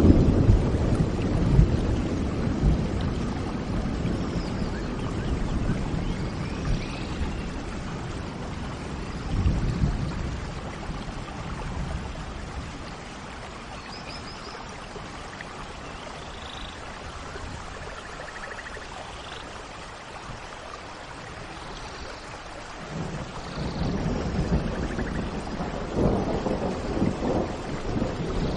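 Steady rain with rolling thunder, loudest at the start, fading through the middle and building again near the end. Faint bird chirps come and go over the rain.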